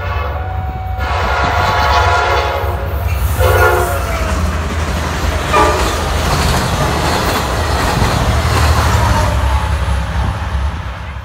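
A train passing close by with its horn sounding: a long blast, then a shorter, lower one, and a brief toot, over the steady low rumble and wheel noise of the train. The sound cuts off suddenly at the end.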